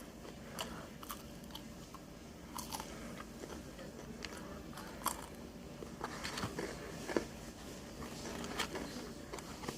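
Close-up eating sounds: crisp fried food crunching under bites, with chewing in between and irregular crunches scattered through.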